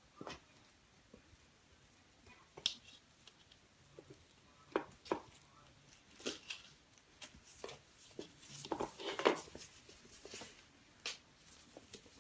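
Kittens playing: scattered light taps, clicks and scuffs, busiest a little past the middle.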